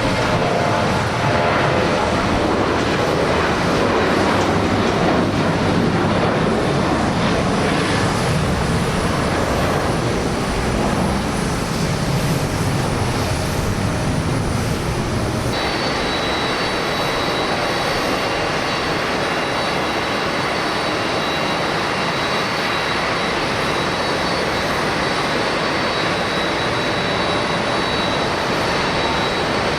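Large jet airliner engines at takeoff power, a loud steady jet rumble. About halfway through, the sound changes abruptly to another jet at full thrust, with a steady high fan whine over it.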